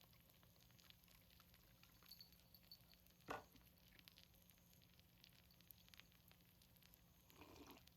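Near silence with faint crackling and ticking from a seafood pancake frying on a cast-iron cauldron lid, and one short louder sound about three seconds in.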